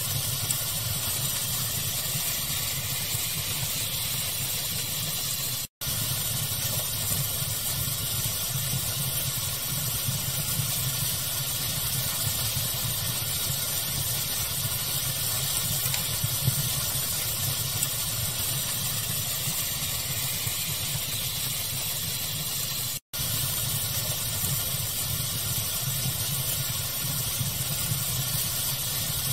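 Steady pink-noise-like hiss and low rumble of a fire ambience, with a few faint crackles. The sound cuts out for an instant twice, about six seconds in and near the three-quarter mark.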